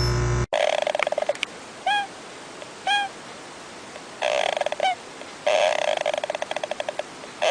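A bird's calls: several bursts of fast stuttering pulses, like a rapid chatter, with two short single calls that rise and fall in pitch about two and three seconds in.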